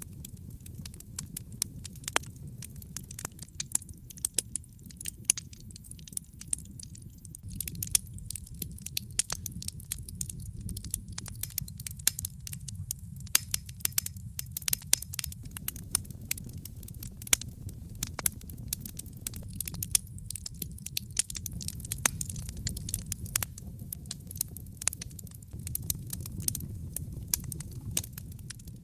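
Wood campfire crackling: many irregular sharp pops and snaps, coming thicker from about eight seconds in, over a steady low rumble of the burning fire.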